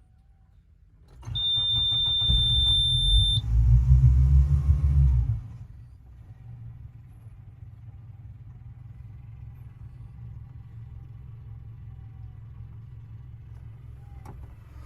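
The engine of a Nissan PF730T boat cranks and starts about a second in, while a steady high-pitched warning buzzer sounds. The buzzer stops as the engine catches. The engine revs up briefly, then settles to a steady idle.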